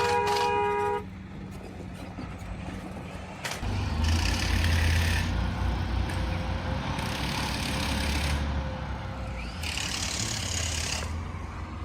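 A vehicle horn sounds and cuts off about a second in; then a large truck engine revs in three surges, each with a burst of hiss.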